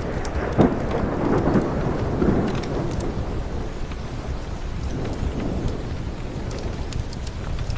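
Thunder rumbling and fading away over the first few seconds, over steady rain, with faint scattered crackles of a wood fire in a fireplace.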